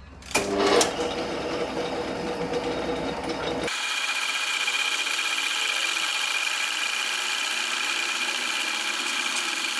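Metalworking machinery running steadily. A low rumble with a few knocks changes abruptly, about a third of the way in, to a steady higher whine with hiss.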